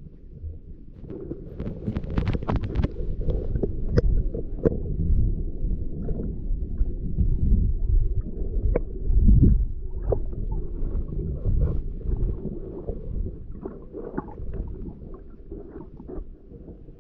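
Muffled, uneven low rumble of water moving against the microphone, with a few scattered clicks and taps and a swell of sound about nine seconds in.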